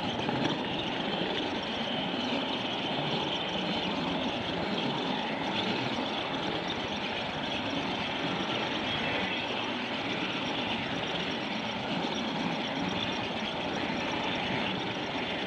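A train running on its track, a steady running noise that holds without a break.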